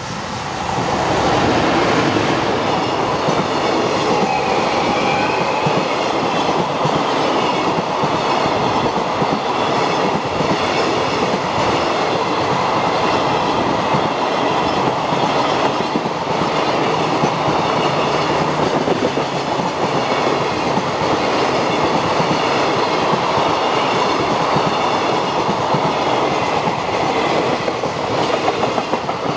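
Long JR Freight container train of Koki flat wagons rolling past close by: a loud, steady rumble with wheels clattering over the rail joints.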